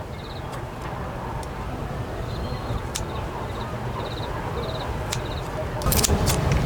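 Outdoor ambience: a steady low rumble with short high chirps, each a quick run of four or five pulses, repeating every second or so. Near the end it gets louder and sharp clicks begin.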